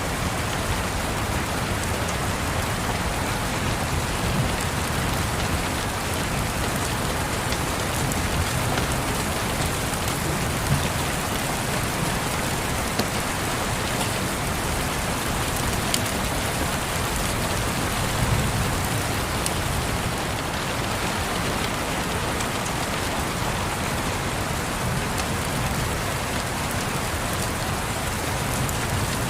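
Steady rain pattering, with a few sharp fireplace crackles now and then and a faint low rumble underneath.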